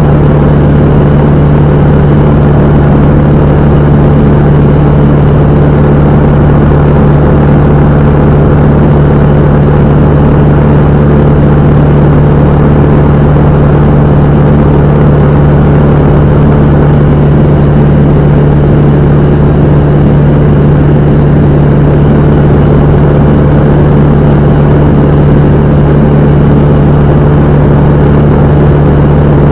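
Cessna 172M's four-cylinder Lycoming O-320 engine and propeller running at a steady, unchanging power setting: a loud, constant drone with a strong low hum.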